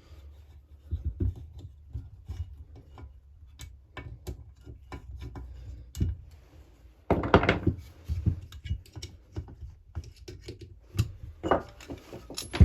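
Small clicks and knocks of a hand tool and metal parts as the last crankcase bolt is undone on a Husqvarna 346XP chainsaw, with a louder scraping rattle about seven seconds in and a few sharper knocks near the end.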